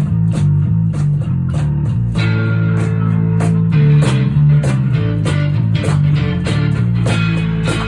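Live acoustic rock band playing an instrumental passage without vocals: guitars strummed in a steady rhythm over a bass line that moves every half second or so.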